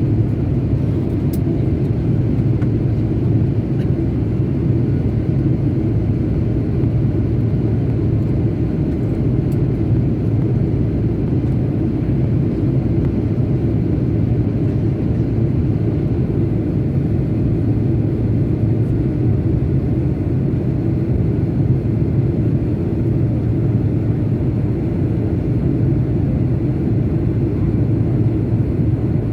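Steady low rumble of an airplane in flight, even and unchanging throughout.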